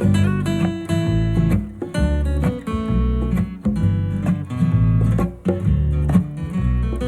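Strummed acoustic guitar playing a song intro, chords changing about every second with a steady bass line.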